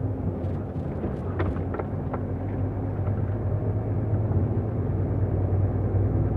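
Truck engine and road noise heard inside the cab while driving, a steady low drone, with a few brief clicks or rattles about a second in.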